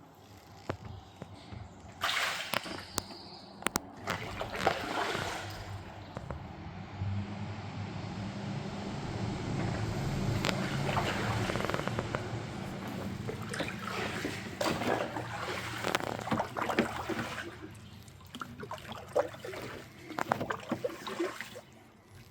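Water splashing and sloshing around a kayak on a river, in irregular clusters of splashes, with a steadier rush of moving water through the middle.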